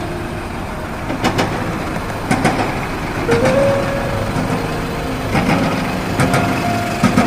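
Road traffic: a steady vehicle rumble with several short sharp clicks and a few brief steady tones.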